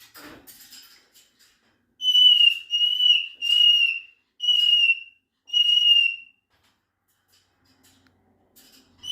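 Moluccan cockatoo giving a run of five loud, level, whistle-like calls in quick succession, then one more near the end. A faint rustle comes just before.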